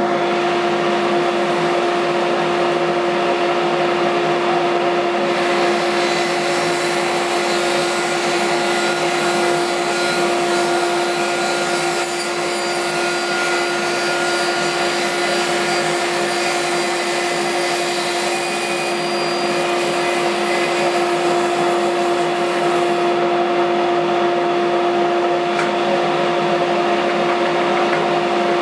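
Table saw running with a steady whine. From about five seconds in until a few seconds before the end the sound grows brighter and hissier as the blade cuts up through the template material in a drop cut.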